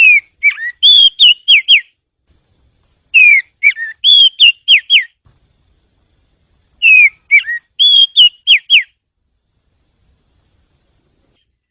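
Oriental magpie-robin singing: three phrases of clear whistles that slide downward, each about two seconds long with a gap of over a second between them, then a pause near the end.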